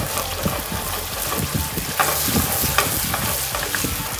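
Sliced onions, tomato and chili paste sizzling in hot oil in a stainless steel pan, stirred with a wooden spoon: a steady crackling hiss with a few sharper clicks of the spoon against the pan.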